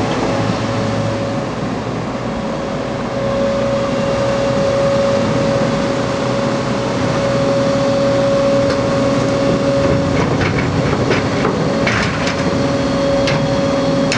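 JCB JS220 excavator working: steady machine noise with a constant whine, and a run of knocks and clanks from about ten seconds in.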